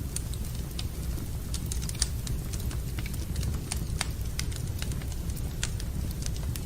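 Wood fire in a fireplace crackling: irregular sharp pops and snaps over a steady low rumble, the strongest pop about two seconds in.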